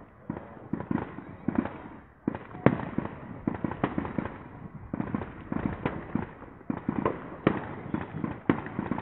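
Fireworks going off in a rapid, irregular string of bangs and crackling pops, with a few sharper, louder bangs among them.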